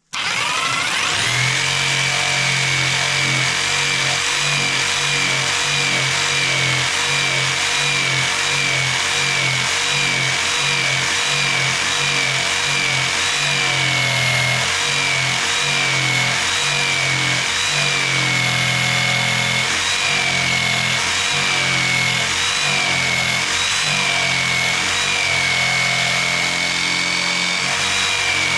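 Electric jigsaw running continuously, cutting through an old wooden beam; its motor whine wavers slightly as the blade strokes and the load shifts.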